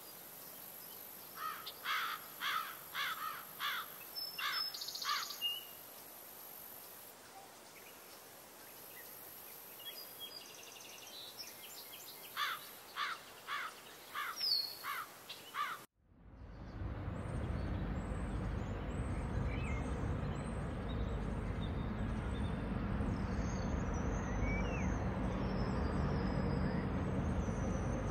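A bird calling in two runs of quick, evenly spaced chirps over a faint background. About two-thirds of the way through, the sound cuts off abruptly and is replaced by a steady, louder noise with a low hum.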